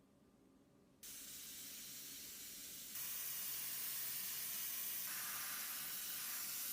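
A steady spraying hiss that starts about a second in and gets louder about three seconds in.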